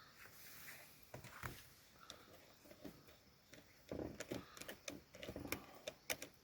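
Faint clicks, taps and light rustles of small objects being handled while preparing food, sparse at first and coming thicker from about four seconds in.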